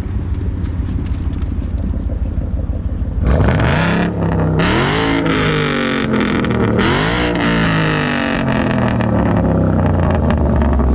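Car engine idling, then revved three times from about three seconds in, each rev climbing and dropping, before settling back to idle.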